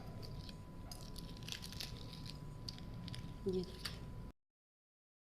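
Eggshell of a hard-boiled egg faintly crackling and clicking as it is peeled off by hand, with a brief louder sound about three and a half seconds in. The sound cuts out to silence near the end.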